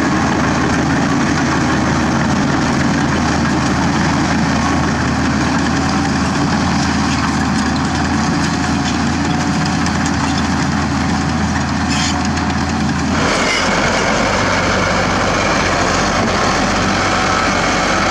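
Zoomlion ZD160-3 bulldozer's Weichai diesel engine running steadily and loud. About thirteen seconds in, its note changes abruptly to a deeper hum.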